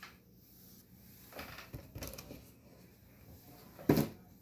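Faint scattered clicks and small knocks, with one louder, sharp knock near the end.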